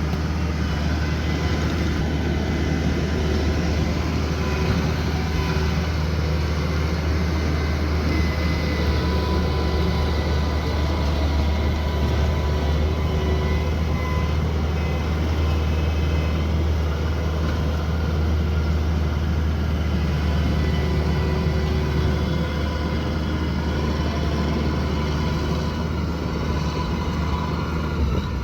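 Rice combine harvester running steadily: a constant low engine drone with faint whining tones above it, unchanged throughout.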